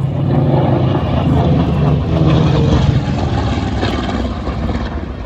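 Propeller aircraft's piston engine droning as it flies past, loudest in the first few seconds and easing off toward the end.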